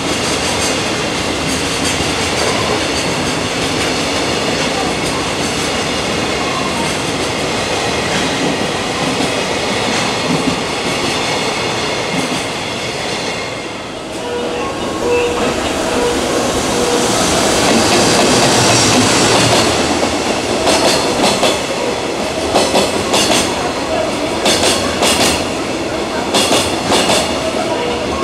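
Freight train wagons rolling past, a steady rumble of wheels on rail. About halfway through it dips briefly, then grows louder, with a regular clickety-clack of wheels over rail joints in the second half.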